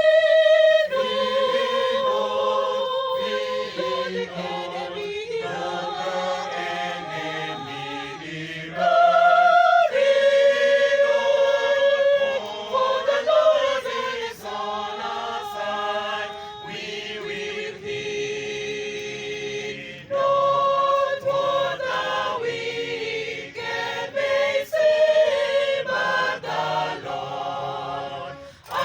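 Choir singing a hymn, several voices in harmony on long wavering notes, growing louder about 9 seconds in and again about 20 seconds in.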